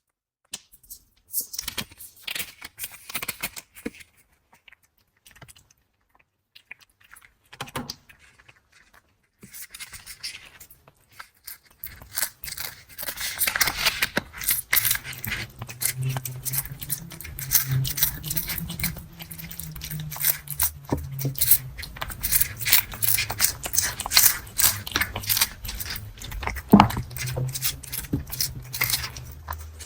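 Cat's mouth sounds close to the microphone: scattered crisp clicks at first, then a dense run of crunching clicks with a low steady hum underneath from about halfway through.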